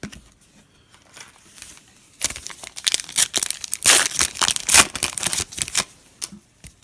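A foil trading-card pack wrapper being torn open and crinkled by hand, a dense crackling that is loudest from about two seconds in until near the end.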